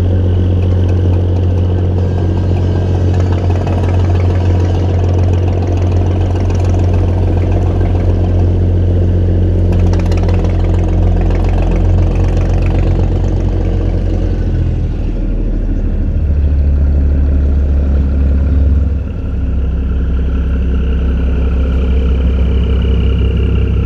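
A boat engine running steadily with a low drone; its tone shifts about two-thirds of the way through, and the level dips briefly soon after.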